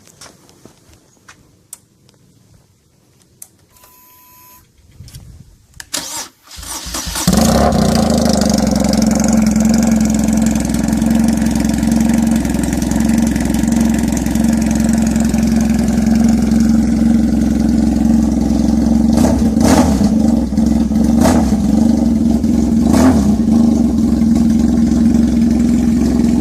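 Superbike engine cranked and started after a few quiet clicks and a short beep, then idling loudly and steadily. A few short sharp sounds cut through it about two-thirds of the way in.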